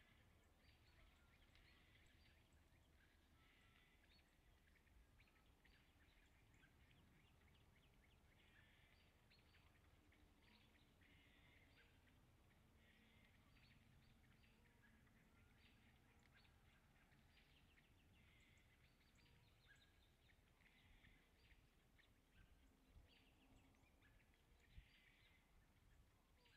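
Near silence with faint, continual chirping of small birds over a low rumble, and one sharp click near the end.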